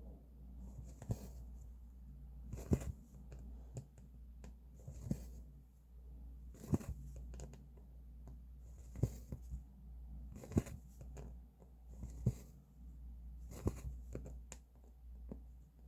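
Cross-stitching: a needle popping through stretched fabric and thread swishing as it is drawn through, a soft tap followed by a short hiss every one to two seconds.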